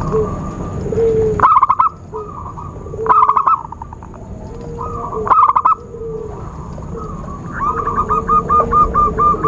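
Zebra doves (perkutut) cooing. Three short bursts of quick staccato notes come a couple of seconds apart, then near the end a run of about eight evenly spaced coos, over a low rumble and a thin steady high whine.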